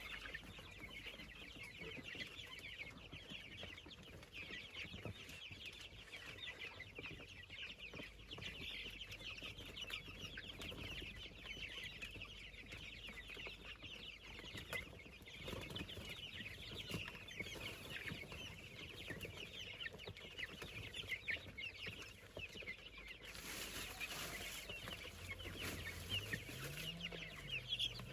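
Chickens calling: many short, high cheeping calls overlapping in a continuous chatter. A brief hiss comes in about 23 seconds in and lasts a few seconds.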